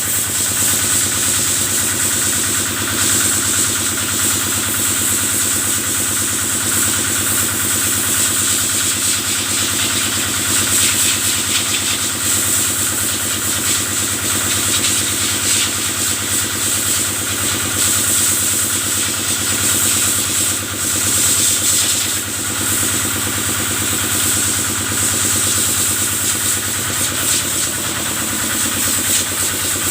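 Kubota engine running steadily at a constant speed, driving the pump of a cattle-washing sprayer, with a constant high hiss over it.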